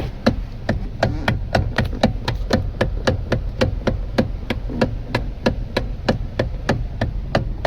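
Kia Cerato's electric power steering column knocking in a fast, even series, about four sharp knocks a second. The mechanic traces the noise to a worn, broken washer in the steering motor.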